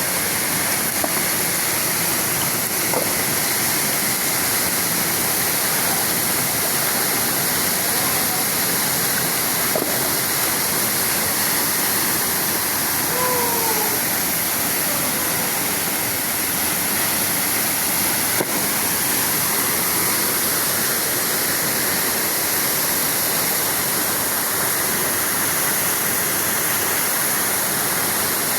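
Basauh waterfall's water falling and rushing, a steady, unbroken roar of noise.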